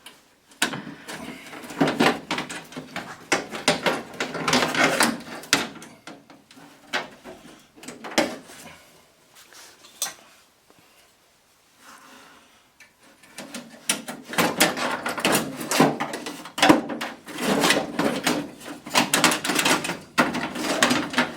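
Hands and tools working a truck door's lock mechanism loose inside the door: runs of sharp metal clicks, knocks and rattles, with a lull partway through before the clatter picks up again.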